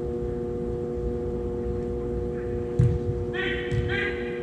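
A steady hum in an indoor sports hall, a single sharp thud of a soccer ball being struck about three seconds in, then a short shouted call.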